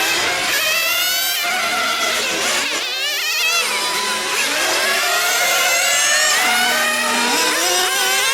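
Several small nitro glow engines of 1/8-scale RC on-road cars screaming around a track, their high pitches rising and falling with the throttle. One car passes close about three seconds in.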